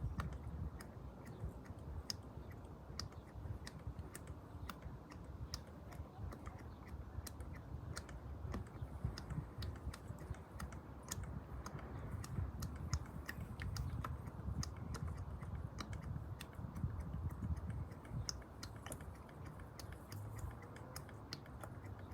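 Fresh motor oil being poured from a jug into the engine's oil filler: a faint, uneven low rumble with many light, irregular clicks.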